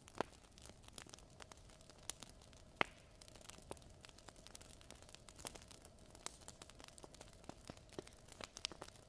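Wood fire crackling in a fireplace: irregular small pops and snaps, two sharper snaps in the first three seconds, over a faint steady hum.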